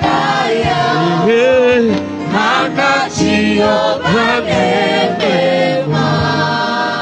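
Church choir singing a gospel song, with the voices settling into a long held chord near the end.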